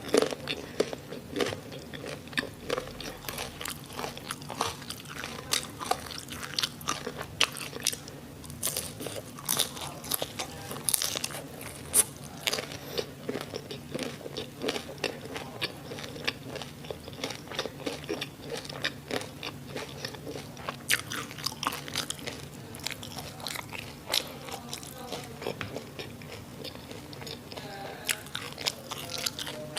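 Close-miked eating: crisp crunching bites and wet chewing of crispy fried sausage and onion, a dense run of sharp irregular crackles.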